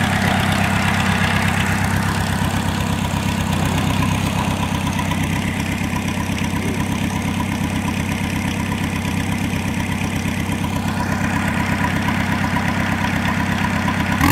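Volkswagen Golf engine in a homemade mini tractor, idling steadily with a low, even pulsing.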